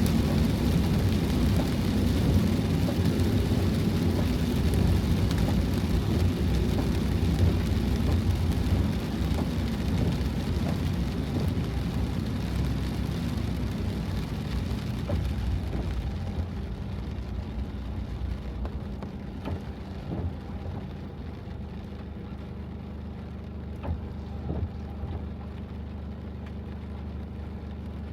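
Heavy rain on a van, heard from inside. It eases about halfway through to a quieter, duller patter over a steady low hum.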